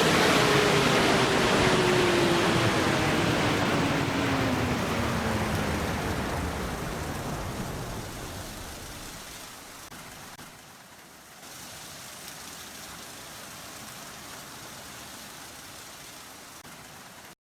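Car wash tunnel dryer blowers winding down after being switched off. The rushing air noise fades over several seconds while a hum falls steadily in pitch as the fans spin down, then a faint steady hiss remains until the sound cuts off near the end.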